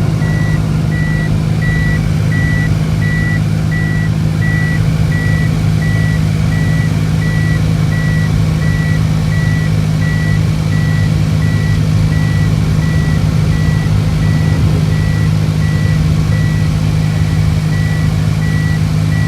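A car running on the road, heard as a steady low hum inside the cabin, with a high electronic beep repeating evenly about twice a second.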